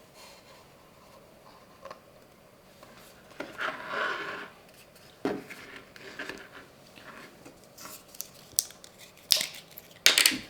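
Hands working small parts at a bench: a scraping rustle about three and a half seconds in, then scattered sharp clicks and knocks, the loudest near the end.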